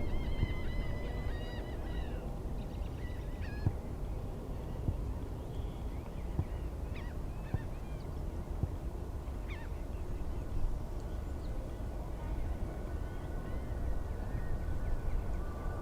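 Geese honking in a rapid series of calls over the first few seconds, with a few scattered calls later, over a steady low rumble. A steady high whine comes in near the end.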